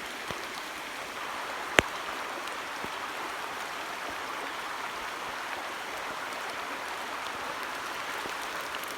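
Steady rain falling: an even hiss, with one sharp tap a little under two seconds in.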